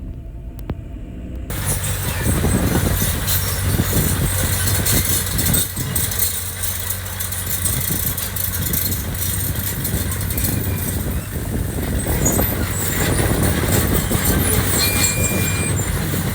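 Heavy construction machinery's diesel engine running with a steady low hum under a loud, rough noise. About a second and a half in, the sound jumps abruptly from a softer low rumble to this louder level.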